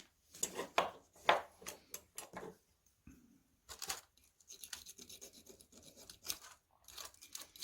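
Hand scraping on a Webster magneto part: a string of short, irregular scraping strokes with brief pauses, taking deposits off around a hole.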